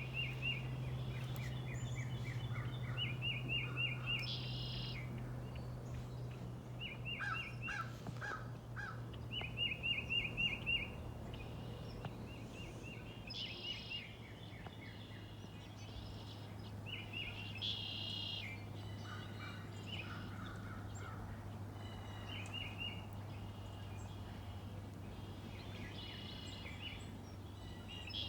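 Songbirds singing: a bird repeats a short phrase of fast, high, evenly spaced notes every few seconds, while other birds call in between. A steady low hum runs underneath.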